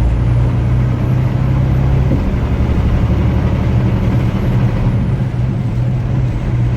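Semi-truck cab on the move: the diesel engine drones steadily under an even rush of tyre and road noise on a wet highway.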